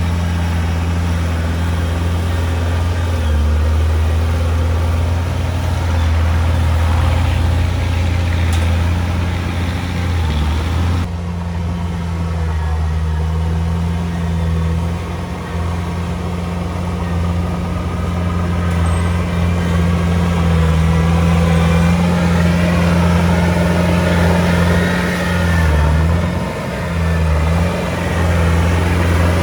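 A heavy diesel engine on earthmoving equipment runs steadily under work with a deep hum. About a third of the way in, the higher-pitched noise drops away suddenly. Near the end the engine's pitch dips briefly a few times.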